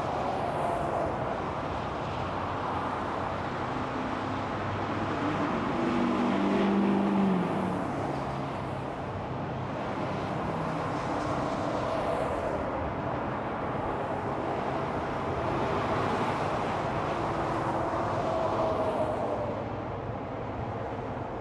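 Steady interstate traffic with tyre noise from vehicles passing one after another. About six seconds in, a heavy vehicle's engine hum rises above the traffic and drops in pitch as it goes by.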